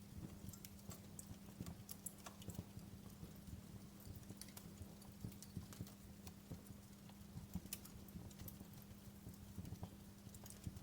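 Wood fire crackling: faint, irregular pops and snaps over a low rumble, with a steady low hum underneath.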